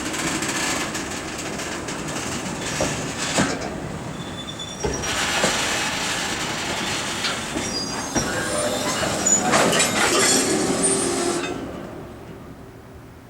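Freight train wagons rolling past, wheels knocking over rail joints with brief high-pitched squeals. The noise fades away near the end as the tail of the train passes.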